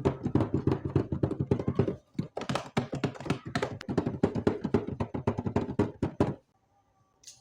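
Rapid, dense tapping and clicking of small plastic toy kitchen pieces and packaging being handled, with a short break about two seconds in. The tapping stops a little after six seconds, leaving a few faint steady tones.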